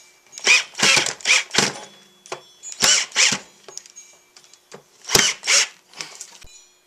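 Power drill driving screws in short trigger bursts, about eight in three groups.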